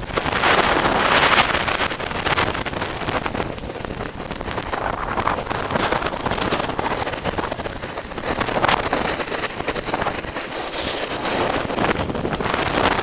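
Strong gusty blizzard wind buffeting the microphone, a rushing noise that surges and eases, loudest about a second in.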